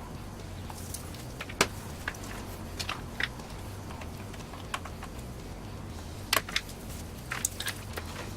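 Scattered light clicks and taps of small hard parts being handled, the sharpest about a second and a half in and again after six seconds, over a steady low hum.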